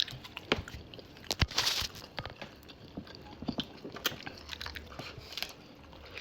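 Close-up eating sounds: chewing and biting, with scattered crunchy clicks and a brief louder crunch about a second and a half in.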